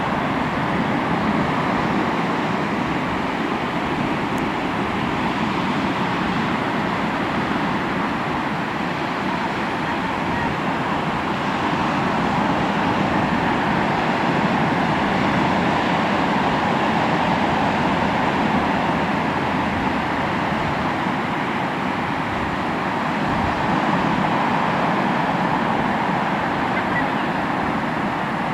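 Sea waves washing onto the shore: a steady rush of surf that swells and eases.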